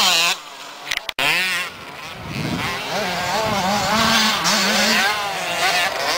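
Motocross motorcycles racing, their engines revving up and down repeatedly. The sound cuts out briefly about a second in.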